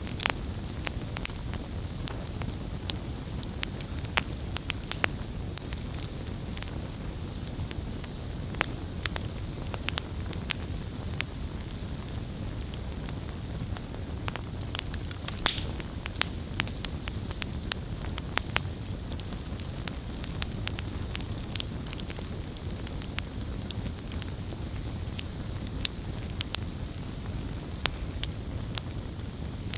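Campfire burning, wood crackling with frequent irregular sharp pops over a low steady rumble of the flames.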